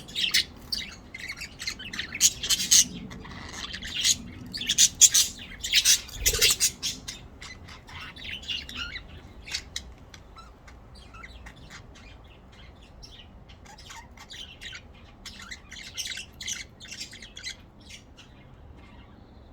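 Budgerigars chirping and chattering, a rapid run of short high chirps, loudest in the first few seconds and then fainter and sparser. A dull thump about six seconds in.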